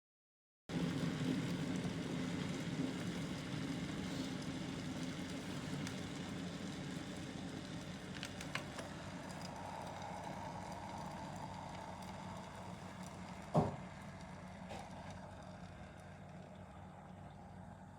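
Electric glass kettle heating water, a steady low rumble of water coming to the boil that slowly dies down, with a sharp click about three-quarters of the way through.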